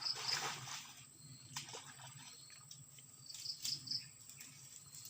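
Crickets chirping in short high-pitched pulse trains, one group at the start and another about three and a half seconds in, over a faint rural background hum.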